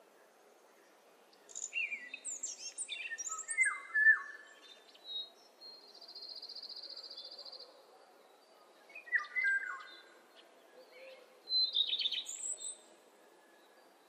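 Birds chirping: quick bursts of short, downward-sliding chirps, a steady high trill lasting over a second midway, then two more bursts of chirps toward the end, over a faint steady background noise.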